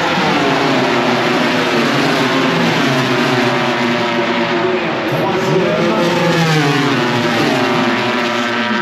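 MotoGP racing motorcycles at race speed. Several engine notes overlap and slide up and down in pitch as the bikes go by.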